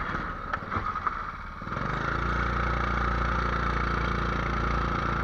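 A few sharp clicks, then a 270cc engine comes in about two seconds in and idles steadily.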